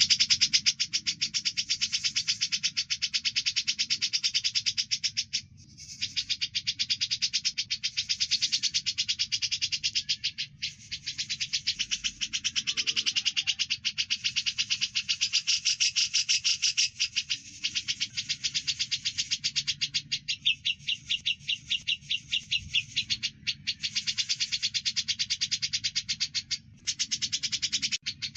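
Recorded song of Eurasian tree sparrow and grey-cheeked bulbul mixed together: dense, rapid chirping, many high notes a second, with a few brief breaks.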